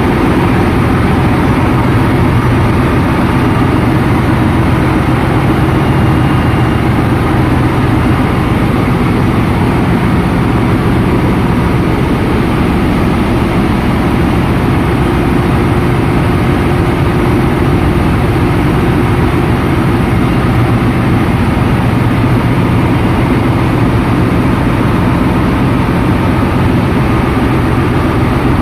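Loud, steady running of a ship's engine-room machinery, a continuous deep diesel hum with a wash of mechanical noise that does not change.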